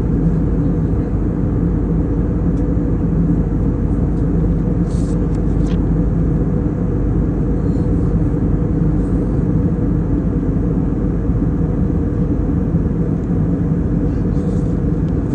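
Airplane engines droning steadily, heard from inside the cabin: a constant low hum with a few steady tones and no change in level.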